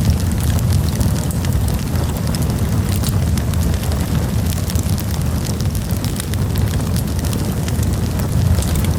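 Campfire burning with a steady low rumble and frequent sharp crackles and pops from the burning wood.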